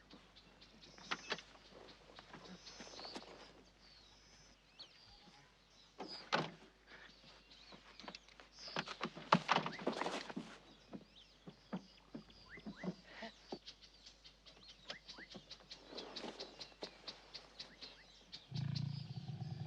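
Wild animal growls and snarls, among many scattered short clicks and knocks.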